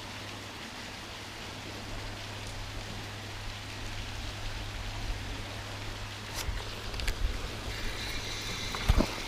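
Steady splashing rush of falling water from a small waterfall running into the lake, with a few sharp clicks from about six seconds in.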